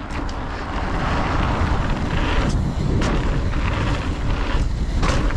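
Mountain bike riding down a dirt singletrack trail: tyres rolling and crunching over the ground and the bike rattling over bumps, with wind rushing over the action camera's microphone. It builds over the first second as the bike picks up speed.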